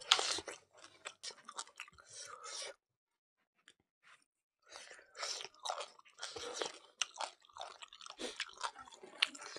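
Close-up chewing and mouth smacking of a person eating mutton curry and rice by hand, with crunchy bites. About two seconds in the middle are silent.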